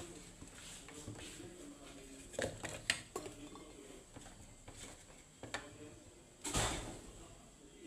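Kitchenware being handled: scattered light knocks and clinks, then a louder scrape of about half a second near the end.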